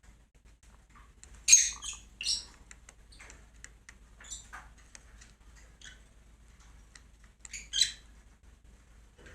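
Cockatiel giving short squawking calls: two loud ones about a second and a half in and another pair near the end, with faint small ticks in between.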